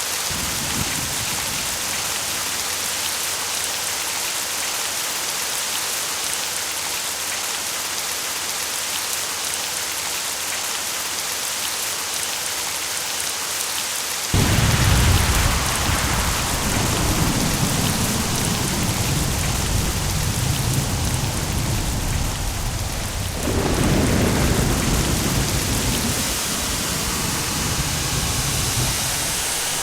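Steady rain hissing. About fourteen seconds in, a clap of thunder breaks in suddenly and rumbles on. A second peal comes about nine seconds later and rolls away toward the end.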